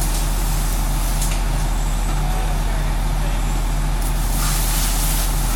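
Large diesel engine running steadily, typical of a fire engine at the scene: a deep drone with a hum that pulses about twice a second, and a steady hiss over it.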